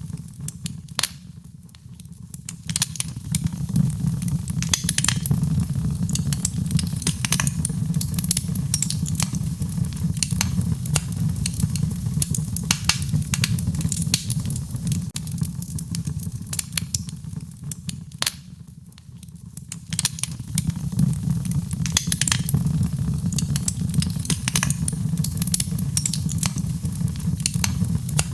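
Fireplace fire crackling: a steady low rumble of flame with frequent sharp crackles and pops. The sound dips briefly twice, about two seconds in and again about nineteen seconds in.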